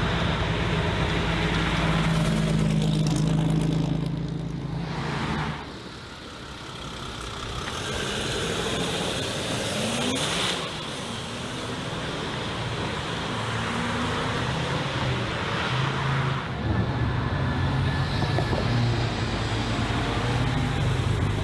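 Mercedes-AMG car's engine and exhaust running, the note dropping away about five seconds in and building again over the next few seconds.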